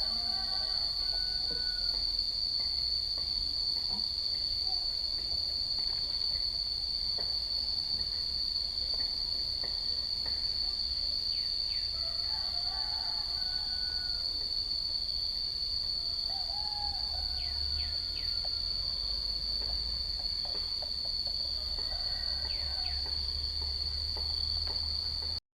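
Insects keeping up one steady, high-pitched drone, with a few fainter short calls now and then and a low rumble underneath.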